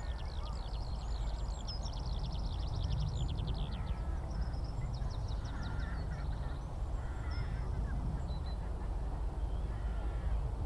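Skylark singing overhead: a fast, high, continuous trilling warble that breaks off about four seconds in and resumes briefly a second later. A few lower bird calls and a steady low rumble run underneath.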